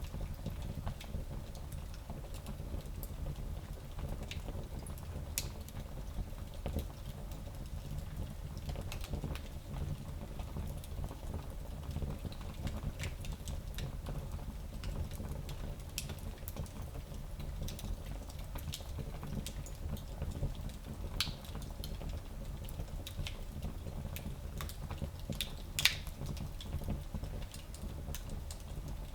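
Fire burning in a small fireplace: a steady low rumble of flames with scattered crackles and pops, the sharpest pop about 26 seconds in.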